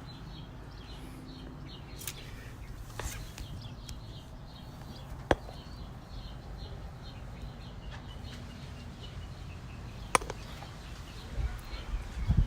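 Small birds chirping over and over in the background, with a few sharp clicks or taps scattered through.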